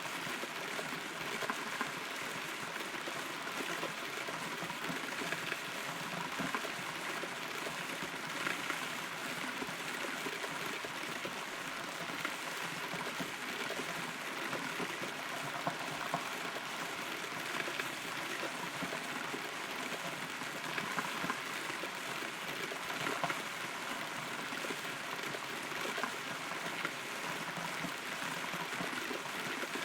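Rain falling steadily, heard from inside a hollow rotten tree trunk, with scattered louder drops standing out from the even patter.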